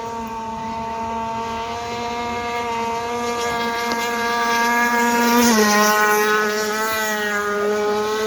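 The small two-stroke petrol engine of a Rio51 Z gas-powered RC race boat running at high speed with a steady high-pitched whine. It grows louder, and its pitch drops a step about five and a half seconds in.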